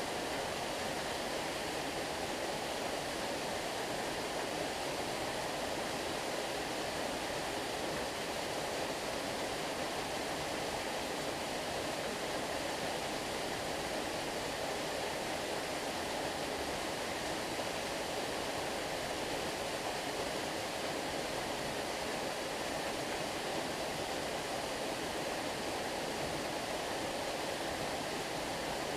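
Stream water flowing, a steady even rush with no splashes or changes.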